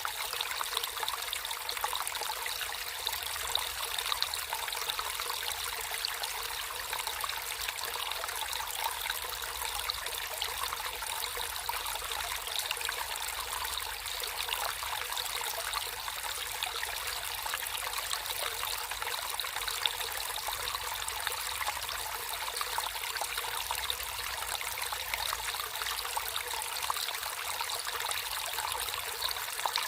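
Natural flowing water trickling steadily, an even hiss of many small splashes that doesn't change.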